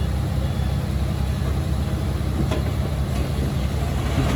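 Heavy-equipment diesel engine running steadily with a low rumble, as on a working bulldozer or dump truck; one faint click about halfway through.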